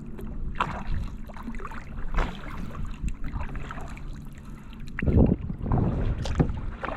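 Kayak paddle dipping and splashing in calm water, stroke after stroke, with the loudest splashes about five seconds in, over a low rumble of wind on the microphone.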